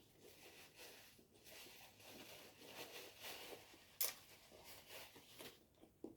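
Faint eating sounds close to the microphone: soft chewing and wet mouth noises, with a sharp click about four seconds in.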